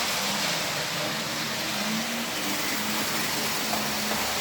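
Electric model train running round the track: a steady whirr of the motor and rumble of wheels on the rails, with a faint hum that wavers slightly in pitch.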